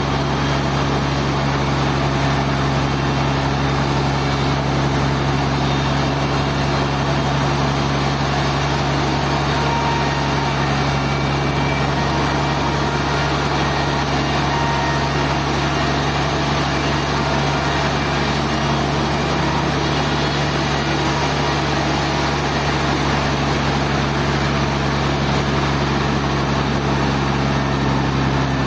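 Sawmill machinery running steadily, a constant low mechanical hum with a noisy wash over it and no change in pitch or level.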